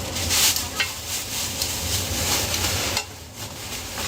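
Food sizzling as it fries, with the clicks and clatters of stirring. The sizzle dips briefly about three seconds in.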